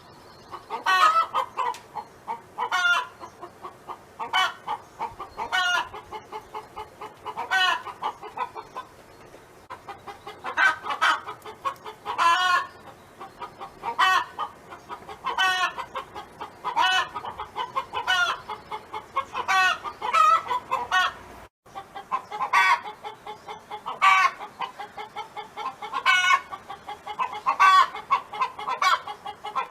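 Domestic hen clucking and cackling in a repeating song: a loud call every second or two, with quicker, softer clucks between them.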